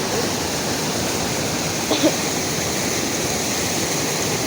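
Steady rushing of river water. A brief short vocal sound comes about two seconds in.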